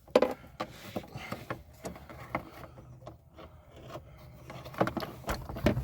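Faint scraping, rubbing and small clicks of a screwdriver and screw being fumbled into place on a truck's accelerator pedal assembly. A louder low handling rumble starts near the end.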